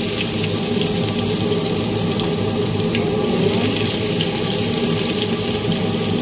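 Onion sizzling in hot oil in a pan: a steady hiss with scattered small crackles.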